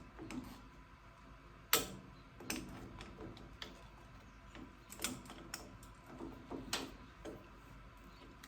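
Scattered light knocks and clicks at irregular intervals, with one sharper knock about two seconds in, as hand tools work pieces of rubber off a tractor's steering wheel hub.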